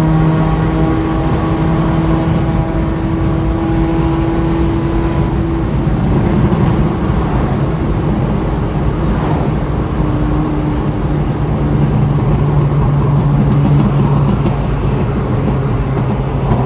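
Proton Waja's Mitsubishi 4G18 four-cylinder engine running through a custom full exhaust system with a steady drone. About five seconds in, the drone shifts and turns rougher for a few seconds, then settles again at a slightly lower pitch.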